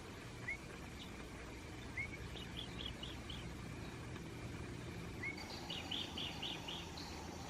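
Night-time outdoor ambience of small animal calls: short high chirps in runs of four or five, and a single short up-flicking note every second or two, over a low steady hum.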